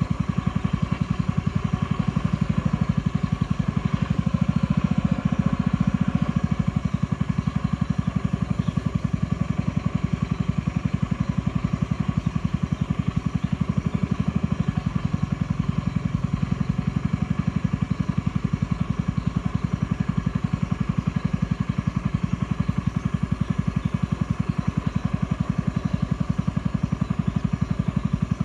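A small boat's motor running steadily, with a fast, even beat.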